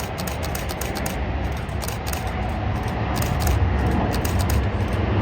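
Jet engine rumble of a departing American Airlines Boeing 787-9, growing louder toward the end, with quick runs of camera shutter clicks.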